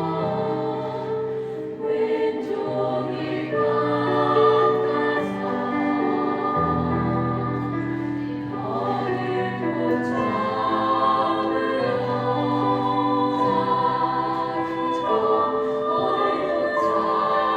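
Choir singing a Korean choral song with accompaniment, in long, sustained phrases.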